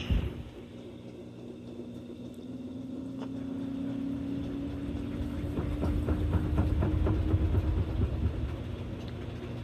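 Kenmore washing machine in its spin cycle: a thump at the start, then the motor's hum slowly rising in pitch as the tub speeds up. From about five and a half seconds in, a rapid knocking and banging as the load thumps around, the tub almost going out of balance, easing before the end.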